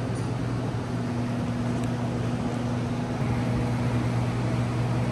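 Steady vehicle running noise: a constant low hum under an even rush of noise, with no change in speed.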